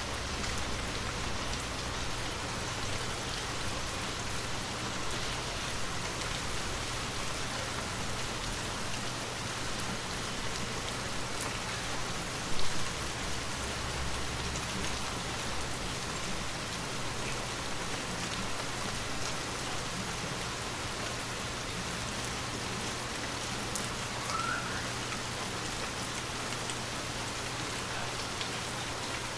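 Steady rain falling on a surface, with a dense patter of individual drops ticking. One short, loud thump about twelve seconds in.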